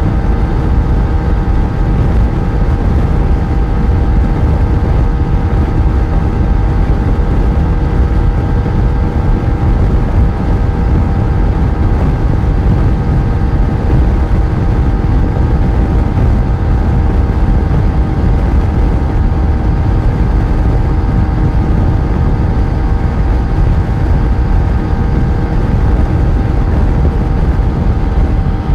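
Yamaha FZ1 motorcycle's inline-four engine running at a steady speed on the road, its pitch holding level over a heavy low rumble.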